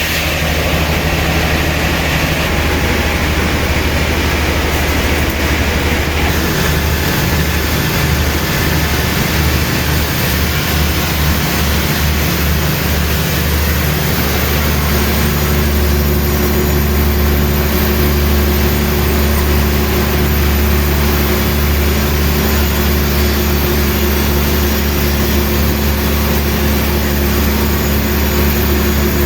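A heavy machine's engine running steadily with a low hum. A further steady tone joins in about halfway through, as the machinery changes load or another machine starts.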